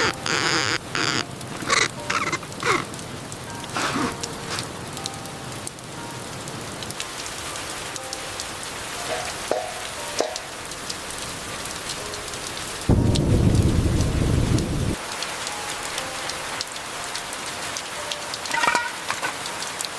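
Steady rain falling, with scattered sharp drips early on. A short, loud roll of thunder comes about two-thirds of the way through.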